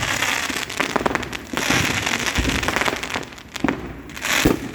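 Fireworks going off: a dense run of crackling pops with a few deeper booms, the loudest near the end.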